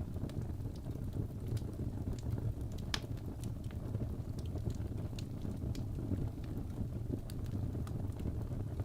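Birch logs burning in a fireplace: irregular sharp crackles and pops over a steady low rumble of the flames, with one louder pop about three seconds in.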